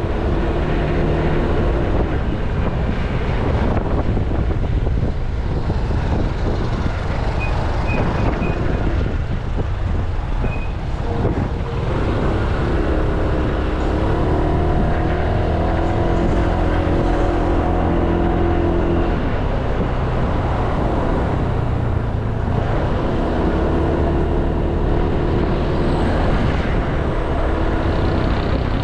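Riding noise on a Honda Click 160i scooter: its small single-cylinder engine running with a steady hum, wind rushing over the microphone, and surrounding road traffic. The engine tone comes and goes.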